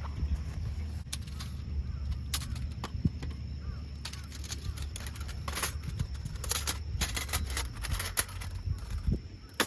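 Irregular sharp clicks and knocks, growing denser in the second half, over a steady low rumble.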